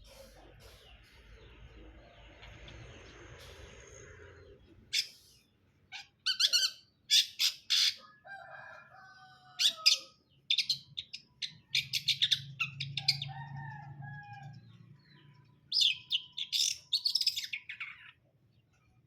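Long-tailed shrike (cendet) singing in rapid bursts of high, scratchy chirps mixed with lower gliding whistled notes. The song begins about five seconds in, after a soft hiss, and stops shortly before the end.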